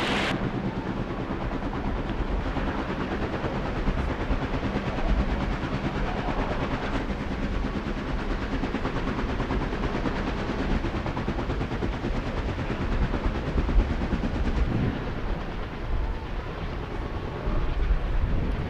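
Dodge Challenger SRT Demon 170's supercharged HEMI V8 running with a loud, steady, low rumble and a rapid crackle.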